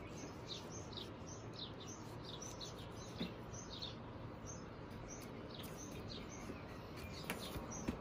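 A small bird chirping over and over, short high chirps a few times a second, over a faint steady hiss. Two light knocks come about three seconds in and again near the end.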